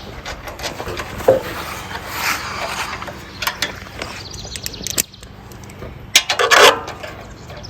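Scattered clicks, clinks and knocks of hand tools being worked on bolts on a minibike, with a louder cluster of clicks near the end.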